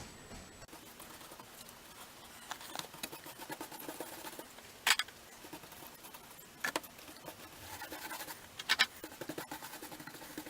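Paintbrush scratching and dabbing on plaster scenery, an irregular patter of small scratches and clicks, with three sharp knocks as the brush or can is handled.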